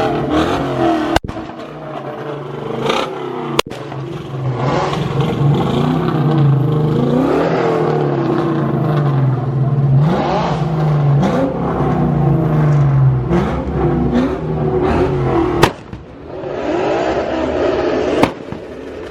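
Performance car engines revving and accelerating, the pitch rising and falling several times in succession as cars pull away.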